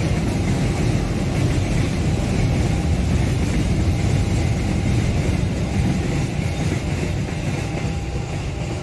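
Container freight train's loaded flat wagons rolling past on the rails, a steady rumble of steel wheels on track. The rumble eases slightly as the last wagons go by near the end.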